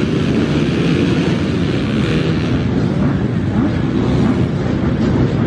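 A pack of off-road racing motorcycles revving hard and pulling away together at the start of a race, many engines overlapping and rising and falling in pitch.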